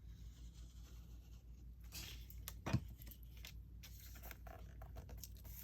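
Scrapbook paper being handled on a work surface: soft rustling and scraping, with one sharp tap about two and a half seconds in and a few lighter ticks after it.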